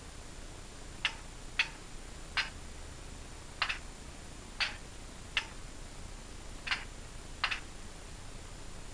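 About eight short, sharp clicks at uneven intervals, one of them a quick double, over a faint steady hiss.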